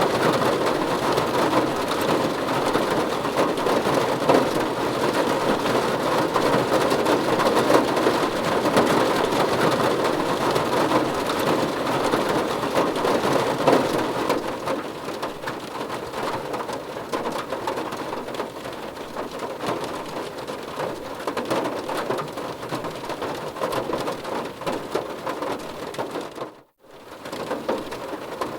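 Steady rain falling on a car's body, heard from inside the car. It softens a little about halfway through and cuts out for an instant near the end before carrying on.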